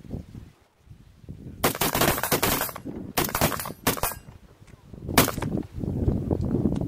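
Small-arms fire on a range in four bursts of rapid shots: a longer string about a second and a half in, two shorter ones a second later, and a brief one near five seconds. Wind buffets the microphone between the bursts.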